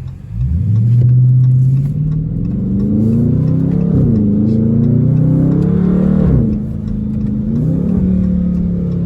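Dodge Charger Scat Pack's 392 V8 with muffler delete accelerating hard, its exhaust note climbing in pitch. The pitch drops back at gear changes about four, six and a half, and eight seconds in.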